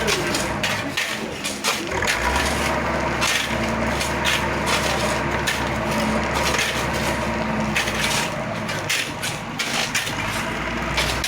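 Engine of heavy road-construction machinery running steadily, with irregular crunching and clattering over it.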